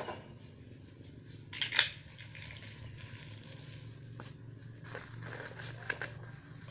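A pin scraping and picking at dirt and carbon on a hot grass-cutter engine part: scattered small scratchy clicks, with one louder scrape about two seconds in, over a steady low hum.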